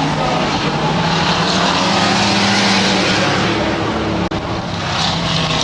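Stock race truck engines running hard around a dirt oval, a steady engine drone over road and crowd noise, with a brief sudden drop in loudness about four seconds in.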